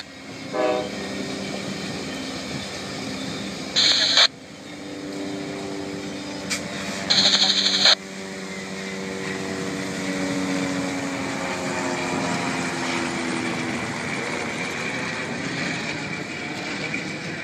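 Amtrak diesel locomotive running past and pulling away with its passenger train: a steady engine drone whose pitch slowly falls as it recedes. Two short, louder bursts of high noise come about four and seven seconds in.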